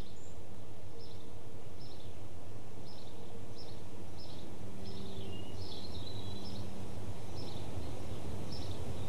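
Birds chirping, short high chirps about once a second, over a steady low hum.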